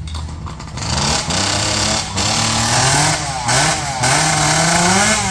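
Two-stroke chainsaw engine revved hard in three runs, its pitch climbing during each run, with brief drops between them, then cut off suddenly.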